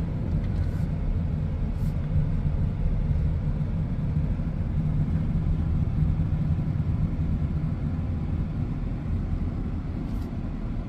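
Car driving slowly, a steady low engine and road rumble heard from inside the cabin.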